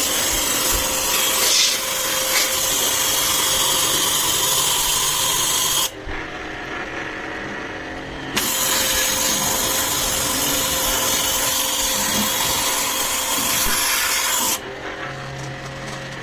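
Electric jet-pump pressure washer spraying water onto an air conditioner in two long bursts. The spray breaks off for about two seconds about six seconds in, then resumes. It stops near the end, leaving the pump motor's steady hum.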